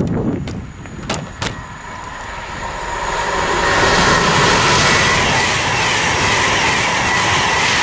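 Virgin Class 390 Pendolino electric express running non-stop through the station at speed: a few sharp clicks in the first second and a half, then the rushing noise of wheels on rail and air grows from about three seconds in and stays loud and steady as the train passes close by.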